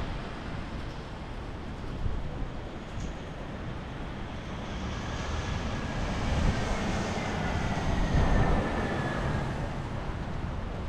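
Storm wind gusting over the microphone as a steady rushing noise with low buffeting. Midway it swells, with a faint falling whine, like a vehicle passing, fading again near the end.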